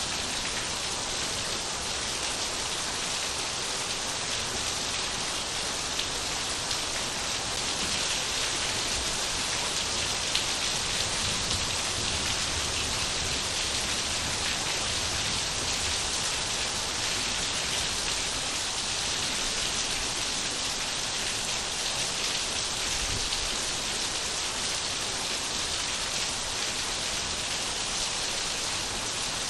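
Steady rain falling and pattering on surfaces, an even hiss of drops with no change in strength.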